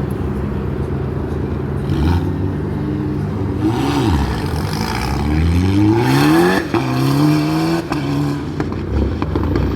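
Car engine under hard acceleration at a speed event. The pitch climbs steeply and falls sharply at a gear change, then climbs again.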